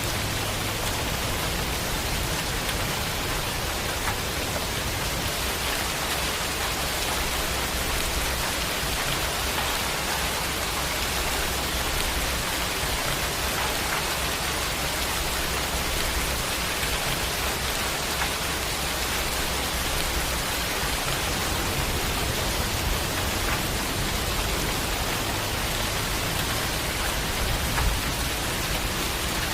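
Steady heavy rain falling in an even hiss, with a low rumble underneath that grows stronger about two-thirds of the way through.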